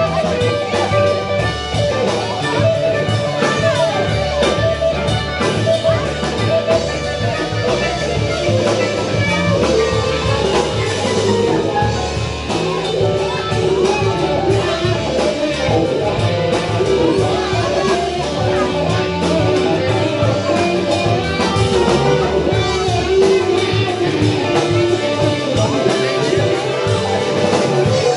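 Rock band playing an instrumental passage: electric guitar playing a lead line with bent notes over drums and bass.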